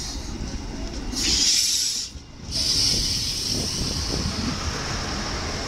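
DB Class 628 diesel multiple unit running in slowly alongside the platform: a low rumble under a steady high hiss. The hiss swells louder about a second in, drops out for a moment around two seconds, then carries on.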